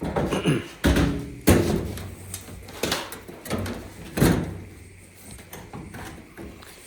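Knocks, clunks and scraping from the panels and parts of a Samsung dryer being handled and shifted during disassembly, about five separate knocks.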